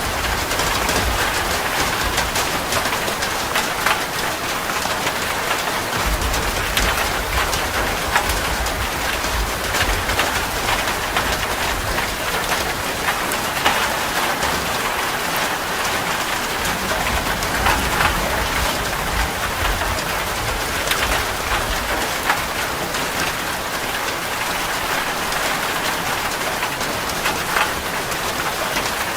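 Steady rain: a dense even hiss of falling drops with many sharper individual drop ticks. A low rumble underneath comes and goes.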